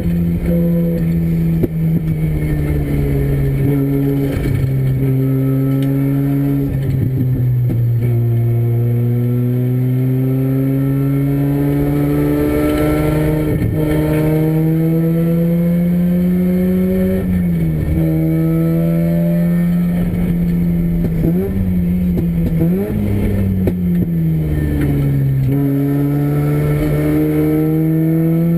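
Freshly rebuilt Renesis two-rotor rotary engine in a 1980 Mazda RX-7 race car, running hard on track. Its pitch climbs steadily through each gear and drops sharply at several upshifts, with a few quick dips and rises about two-thirds of the way through.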